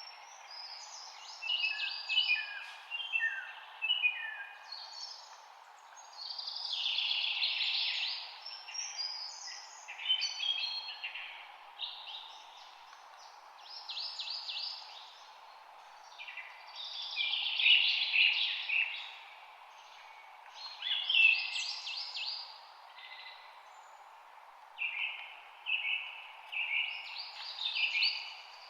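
Songbirds singing in short bouts of rapid chirps and trills, a new phrase every few seconds, over a steady background hiss.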